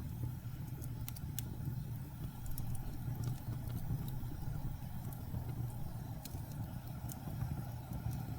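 Steady low rumble of blizzard wind, with scattered sharp crackles and pops from wood burning in a fireplace.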